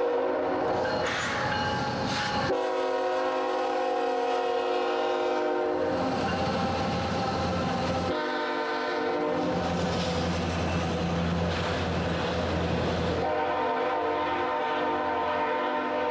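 CSX diesel-hauled freight train passing at speed, its locomotive horn sounding in long blasts. The deep rumble of the diesel locomotives swells as they go by, then gives way to the rattle and wheel clatter of the passing tank cars.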